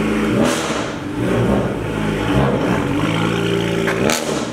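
A BMW coupe's engine running and being revved, its pitch stepping up and down, with a quick rev rising and falling near the end.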